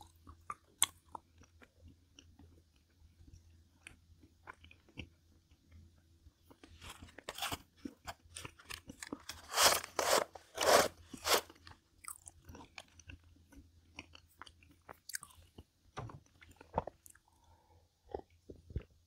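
A person chewing and biting food close to the microphone, with small crunches throughout and a louder run of crunching about halfway through.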